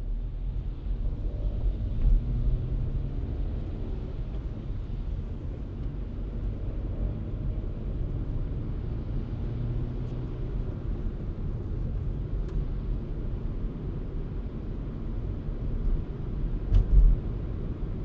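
Car driving, a steady low rumble of engine and road noise with a short jolt, the loudest moment, about seventeen seconds in.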